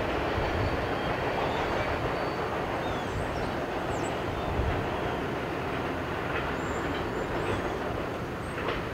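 Steady rumble of a long freight train's car wheels rolling over the rails as its last cars move away, easing slightly near the end.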